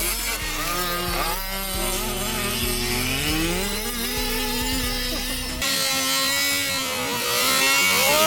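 Car engine revving at high revs: the pitch climbs about three seconds in and is held, with a change in the sound a little past halfway.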